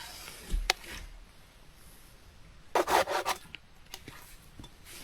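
Rotted dead wood being handled and stacked: a sharp knock about a second in, then a short, rough scrape of wood on wood around the middle.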